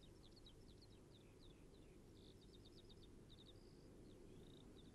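Faint birdsong: quick runs of short, high chirps and twitters over a near-silent background.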